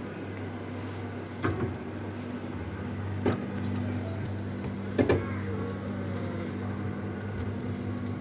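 Steady electric motor hum, with three sharp clicks or knocks spaced about a second and a half to two seconds apart.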